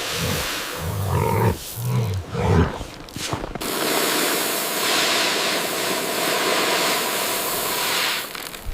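Short, low growling bursts from an animal for the first few seconds, then a steady rushing hiss like blizzard wind that starts suddenly and cuts off near the end.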